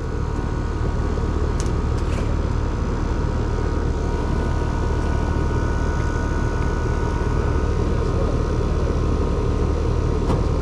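Residential air conditioner's outdoor condensing unit running steadily: a constant hum with a steady whine from the motors, with a few faint clicks about two seconds in.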